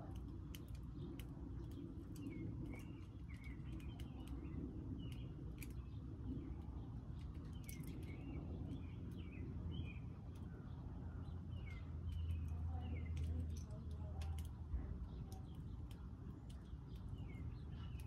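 Small birds chirping at a feeder: many short, quick chirps throughout, with scattered sharp clicks and a steady low rumble underneath.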